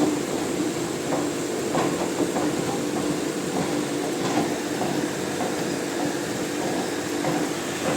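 Machinery running steadily with a constant hum and a continuous noisy rumble, with scattered small clicks and knocks.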